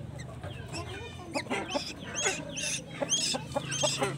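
A young bird calling in a series of short, high chirps, about two or three a second, more frequent after the first second, over a steady low hum.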